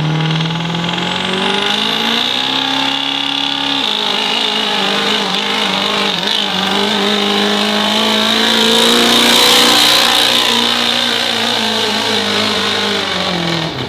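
Diesel pickup truck engine at full throttle pulling the weight sled. Its revs climb for about four seconds, drop, then hold steady while it gets louder, and the engine cuts off sharply near the end as the throttle is let off.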